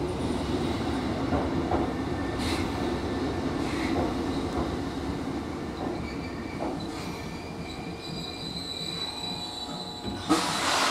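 An oncoming electric train running past close alongside, its wheels clicking over the rail joints. Near the end a sharp clack is followed by a short rush of hiss.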